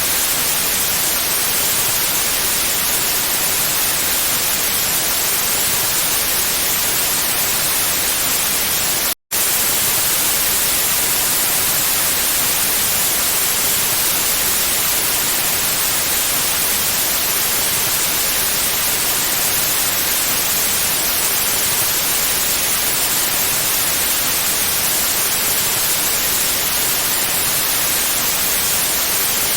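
Steady, loud white noise: an even hiss across the whole range, brightest in the highs. It cuts out for an instant about nine seconds in, then resumes unchanged.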